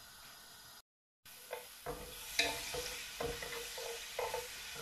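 Garlic paste sizzling in hot oil in an earthen clay pot, with a wooden spoon stirring and scraping through it. The sound drops out completely for a moment about a second in, then the sizzle and the scraping strokes return.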